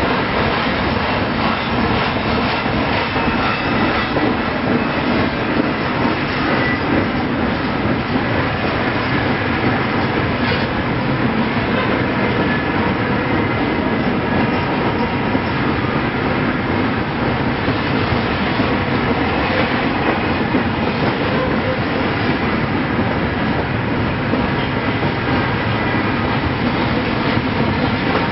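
Freight cars rolling past at close range: a steady, loud rumble of steel wheels running on the rails.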